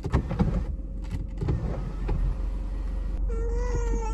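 Steady hum of a car cabin with a few clicks and knocks at the start. Near the end a baby starts fussing with a short drawn-out cry.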